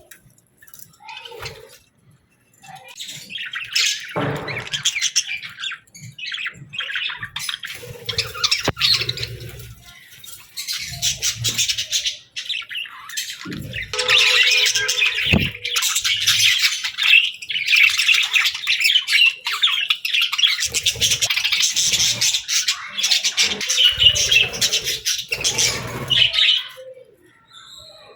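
Pet birds chirping and squawking in a busy chatter of many calls, with a few low bumps among them. The chatter is sparse for the first few seconds, then builds and stays dense until it thins out near the end.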